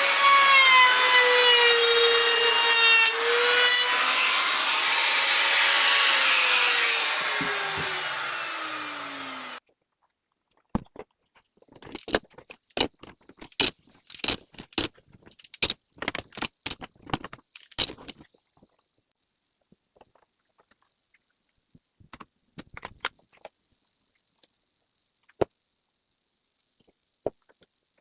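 An electric power tool runs loudly on wood, then its motor winds down with a falling pitch and fades out at around ten seconds. After a sudden cut, crickets chirp steadily, with a quick series of sharp wooden clicks and knocks, then a few more, spaced out.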